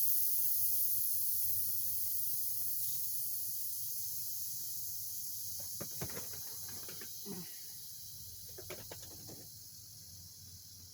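Instant Pot pressure cooker venting steam through its release valve: a steady high hiss that slowly dies away as the pressure drops, with a few faint knocks about two thirds of the way through.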